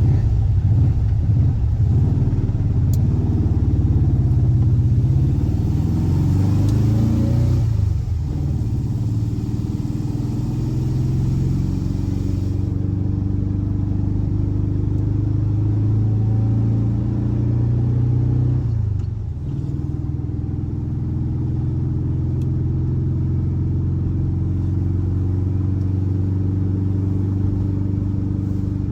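Air-cooled 1584 cc flat-four boxer engine of a VW Fusca (Beetle) running, its pitch shifting up and down, with two short dips in level about 8 and 19 seconds in.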